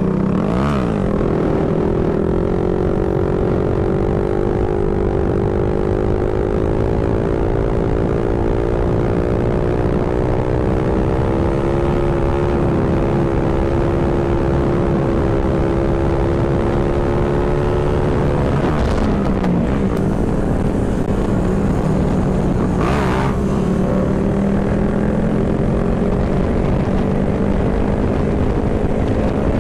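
Small motorbike engine running at cruising speed under wind rush, its note slowly climbing. About two-thirds of the way through it dips briefly as the throttle changes, then holds steady again.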